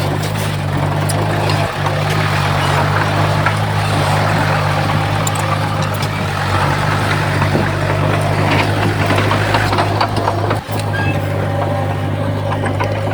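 Komatsu D51PX crawler bulldozer's diesel engine running steadily, with a rattling clatter and scattered clicks over it.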